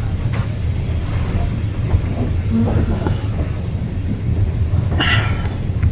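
Railway carriage running along the line: a steady low rumble of wheels on track, with a short hiss about five seconds in.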